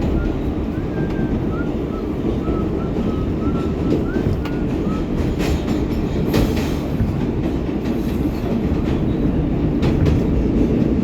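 R188 subway train running through the tunnel: a steady, loud rumble of wheels on rail. A few sharp clacks come over rail joints around the middle and near the end, with faint short high squeaks from the wheels in the first half.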